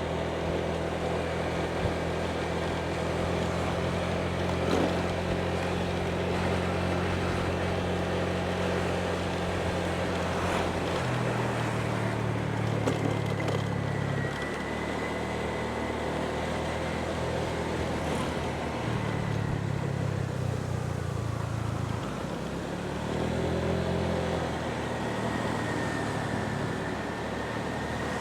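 Motorbike riding along a road: a continuous mix of engine and wind noise, its low pitch shifting a few times as the speed changes.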